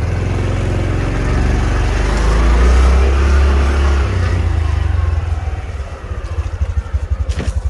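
Honda Trail 125's single-cylinder engine pulling away and accelerating, building to a peak and then dropping in note about four seconds in, with wind noise over the sound.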